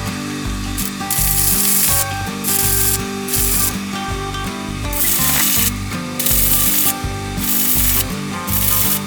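Irregular rasping strokes of abrasive rubbing, each under a second long with short gaps between them, over background music with a stepping bass line.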